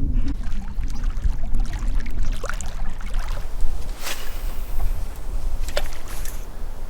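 Water splashing and sloshing at the lake's edge, with a few sharper splashes about two and a half, four and six seconds in, over a heavy low rumble of wind buffeting the microphone.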